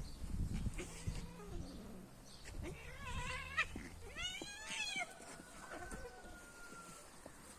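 Cat yowling in two drawn-out, wavering calls about three and four and a half seconds in, after a few low thumps at the start.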